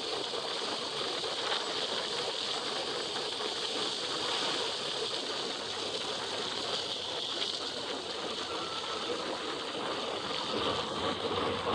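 Steady rushing noise of wind and rain-wet road spray on a motorcycle rider's helmet microphone while riding in the rain.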